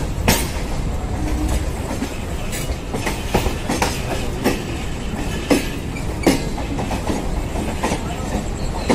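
Two Kolkata suburban EMU (electric multiple unit) local trains running side by side, heard from an open doorway: a steady rumble of wheels on rail, broken every second or so by irregular sharp clicks of wheels passing over rail joints.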